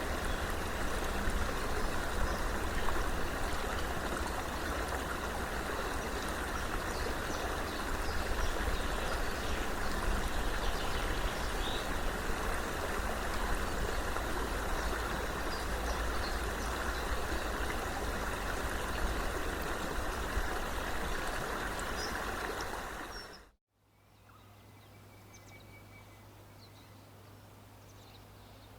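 Rushing water of a stream, a loud, steady noise with a few faint high chirps above it. About 23 seconds in it cuts out abruptly, giving way to a much quieter scene: a low steady hum with occasional faint high chirps.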